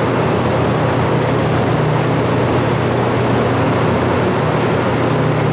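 Steady hum and rushing air of a ventilation fan running without change.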